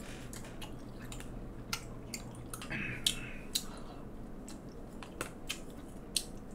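Close-miked chewing of a mouthful of rice and stir-fried pork: irregular wet smacks and mouth clicks, with a short slurp about three seconds in.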